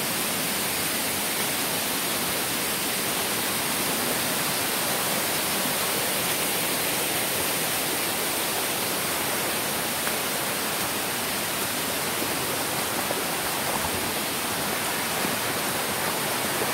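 Steady rush of water from a waterfall, an even hiss with no separate splashes or other events.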